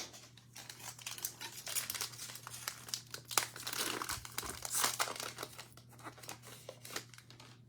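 Cellophane wrapper of a trading-card cello pack crinkling and tearing as the pack is opened, an irregular run of crackles that dies away near the end.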